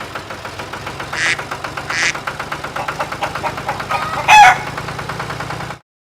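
Small engine running with a fast, even chugging, with two short hisses early on. About four seconds in, a chicken gives one loud, short call over it, and all sound cuts off abruptly near the end.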